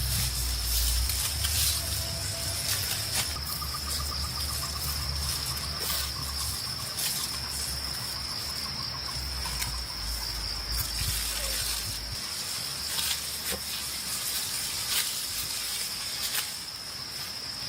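Insects, likely crickets, trilling steadily in a high, even tone, with a low rumble underneath for most of the first two-thirds that stops suddenly, and scattered small clicks and rustles.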